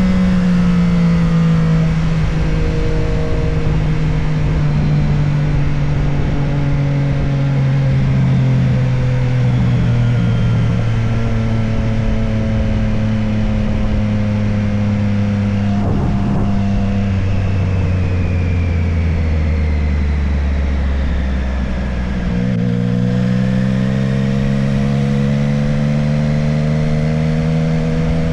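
Motorcycle engine running under way, heard from an onboard camera: its pitch sinks slowly for about twenty seconds as the bike eases off, then climbs again near the end as it accelerates.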